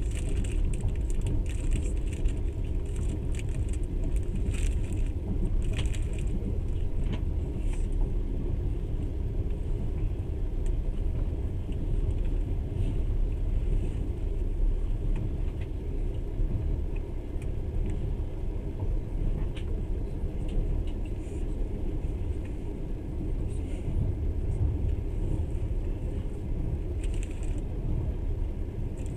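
Moving passenger train heard from inside the carriage: a steady low rumble of wheels on the rails, with scattered light rattles and clinks, most of them in the first few seconds and again near the end.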